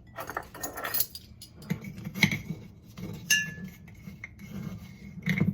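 Metal spoon clinking and scraping against a glass container while stirring salt into warm water for a pickling brine. A string of irregular clinks, one strike near the middle leaving a ringing tone that hangs for a couple of seconds.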